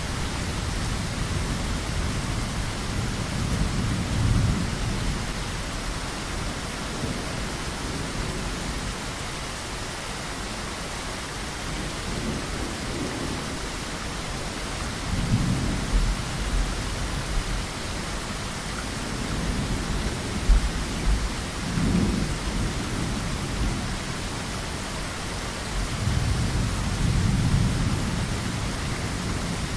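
Heavy, steady rain with rolling thunder that swells and fades several times, low rumbles coming and going every few seconds.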